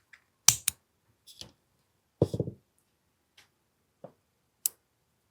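Sharp clicks and light knocks from the parts of an AAP-01 gas airsoft pistol being handled and taken apart. A quick pair of clicks comes about half a second in, a short cluster of knocks a little after two seconds, and a few single clicks follow.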